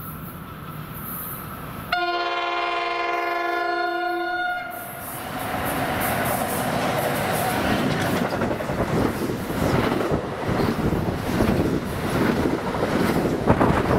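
An electric commuter train's horn sounds about two seconds in, one chord of several tones held for nearly three seconds. Then the train's running noise builds as it comes up and passes close by, with wheel clatter near the end.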